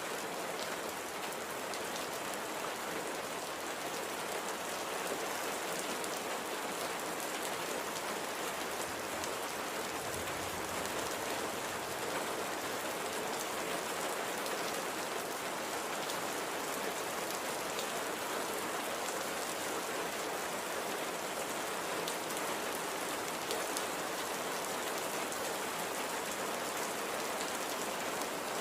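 Steady light rain falling, an even hiss with many fine drop patters.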